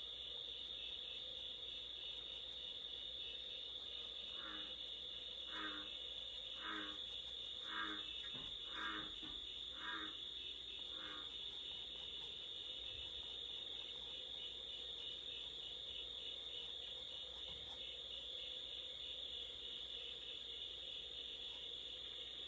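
Crickets chirping in a steady, fast, high-pitched trill. In the middle comes a run of seven short, evenly spaced calls about a second apart.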